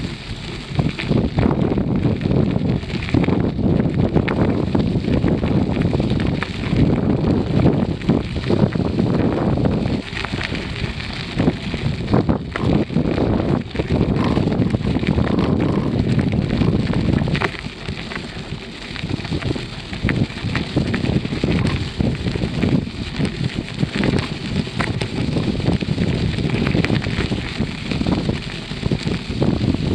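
Wind buffeting the microphone during a bicycle ride, a steady low rumble with frequent small clicks and knocks from the moving bike. It eases for a couple of seconds a little past halfway.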